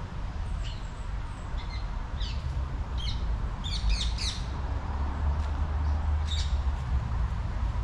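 Small birds chirping: a string of short high chirps, busiest about four seconds in, over a steady low rumble.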